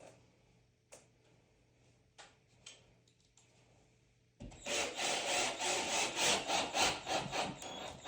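A few light knocks, then about halfway in a hand saw starts cutting in quick back-and-forth strokes, about four a second.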